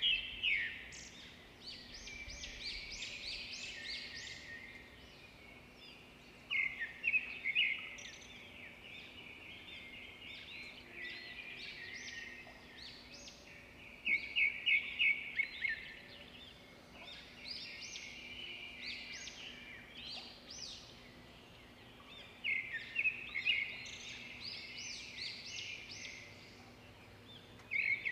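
Birds chirping in bouts of quick, high notes that come back every seven or eight seconds, with softer chirping in between. A faint steady hum lies underneath.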